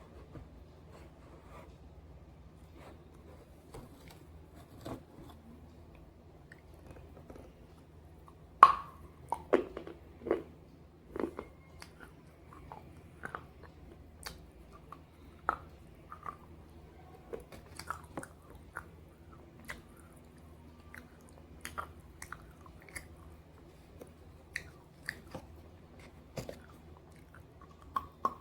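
Close-up crunching and chewing of pieces of slate: irregular sharp crunches as the brittle pieces are bitten and broken between the teeth, the loudest bite about nine seconds in.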